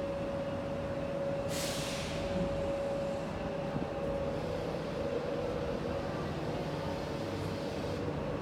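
Train standing at a station platform: a steady mechanical hum with a constant tone, and a sudden sharp hiss of released air about a second and a half in that fades over a second, followed later by a fainter, longer hiss.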